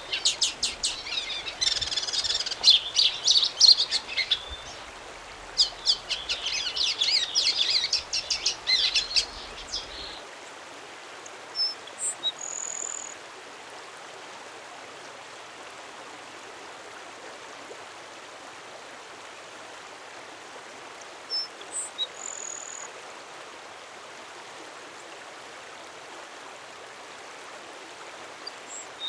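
A songbird singing a fast, jumbled song of rapid high notes for about ten seconds. Then, over a steady hiss, a bird gives a short high call about every ten seconds.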